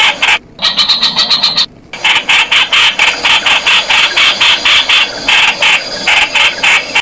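Streak-eared Bulbul giving a fast series of short, harsh calling notes, about six a second, with two brief breaks in the first two seconds.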